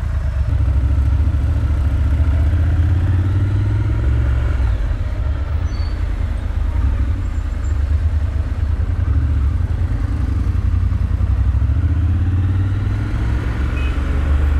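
Triumph Scrambler 1200's 1200cc parallel-twin engine running as the bike rides slowly through traffic. The engine note rises and falls with the throttle, climbing as it pulls away about a second in and again late on.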